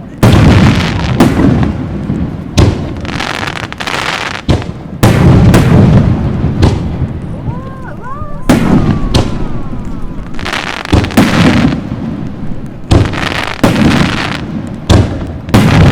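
Aerial fireworks shells bursting in quick succession, about a dozen sharp bangs, each followed by a low rumbling tail.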